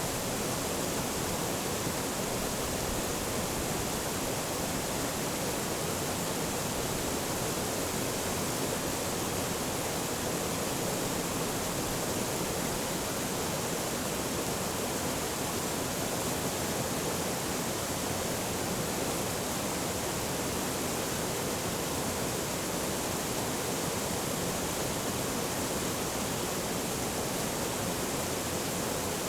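Forest stream rushing steadily over rocks, a constant full hiss of flowing water.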